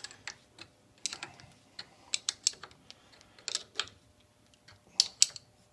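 Small metal parts clicking and clinking in irregular, short taps as a lathe tool post grinder mount and its T-nut are set back on the lathe and fitted by hand.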